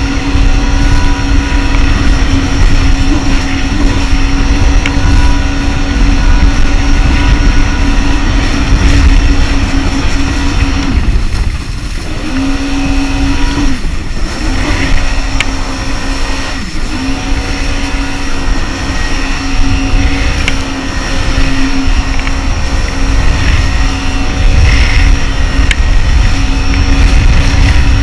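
Jet ski engine running at speed, a steady high drone with a heavy low rumble underneath. The engine note drops briefly a little before halfway and dips again a few seconds later, then holds steady.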